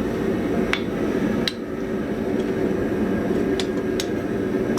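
Steady low rushing noise of a running blacksmith's forge, with four short, light metallic clinks of steel being handled.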